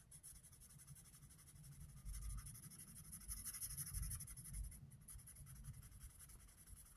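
Faint scratching of a pen on paper.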